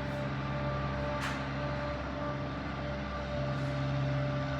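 A steady mechanical hum made of several even tones, with one short click about a second in.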